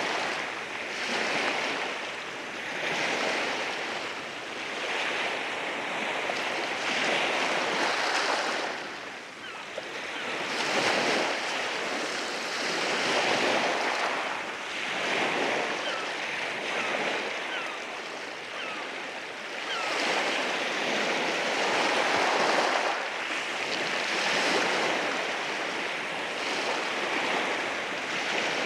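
Sea waves rolling in and washing over rocks, the surf swelling and falling every couple of seconds.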